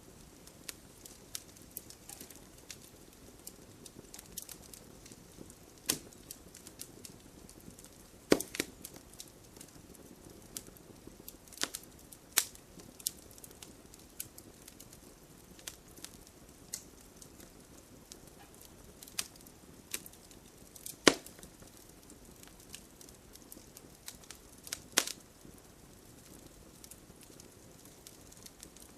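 Wood campfire crackling: irregular sharp pops and snaps over a soft steady hiss of burning, the loudest pops about 8 seconds and about 21 seconds in.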